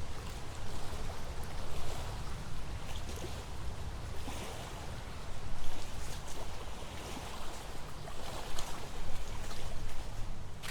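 Wind buffeting the microphone: a steady, fluttering low rumble under an even rushing hiss, with a few faint ticks.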